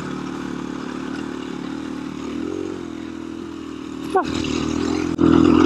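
Single-cylinder four-stroke dirt bike engine of a KTM 350 EXC-F running at low revs. About five seconds in the throttle opens and the engine gets suddenly louder, under load as the bike starts up a steep hill climb.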